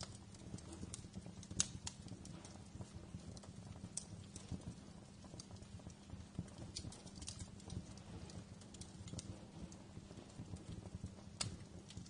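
Wood fire crackling in a fireplace: irregular small snaps and clicks over a steady low rumble of flame, with a sharper pop about a second and a half in and another near the end.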